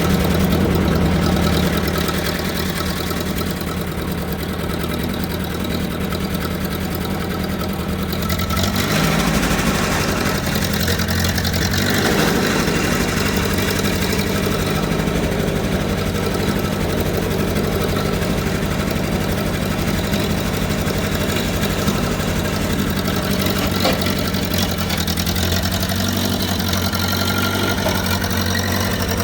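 Tractor engine running steadily, with a shift in its note about eight seconds in.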